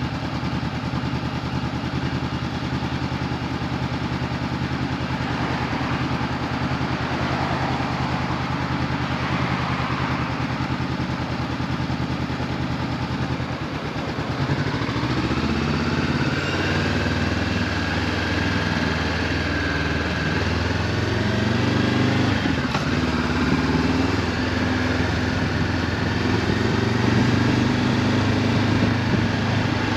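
Honda CB500F parallel-twin engine with an Akrapovic exhaust, ticking over steadily at idle, then pulling away about halfway through with the revs rising, a gear change, and rising again.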